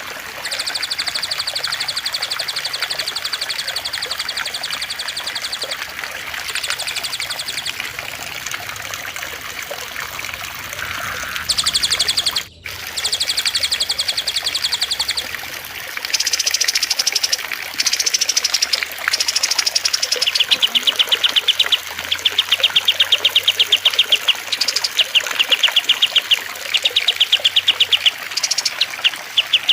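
Small songbirds singing in long, rapid trills repeated in phrases of a few seconds, over a steady trickle of running water. The sound drops out for a moment about twelve seconds in.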